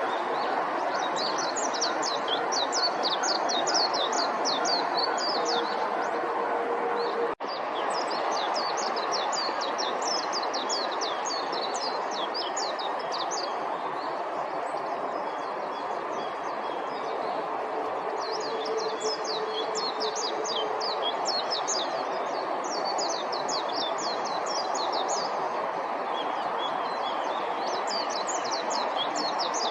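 Japanese white-eye singing: four long phrases of rapid, high, twittering notes with short pauses between them, over a steady background rush.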